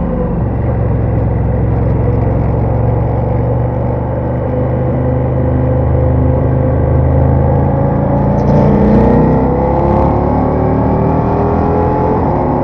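Ducati Diavel motorcycle engine running under way, steady at first, its pitch gliding up and down between about eight and ten seconds in.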